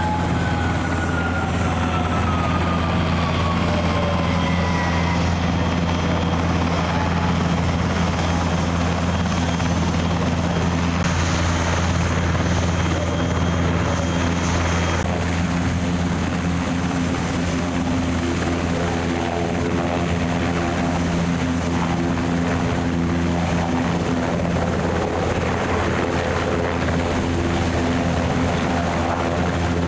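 Helicopter flying past, a steady engine and rotor drone with a high whine that falls in pitch over the first few seconds.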